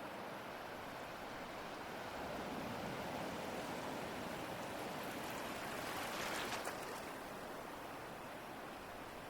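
Ocean waves: a steady hiss of surf that swells for a few seconds, peaks about six seconds in as a wave breaks, then eases back.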